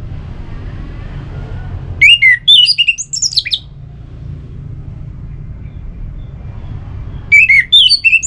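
Orange-headed thrush singing two short, rapid phrases of quick, varied whistled notes, one about two seconds in and one near the end, over a steady low background rumble.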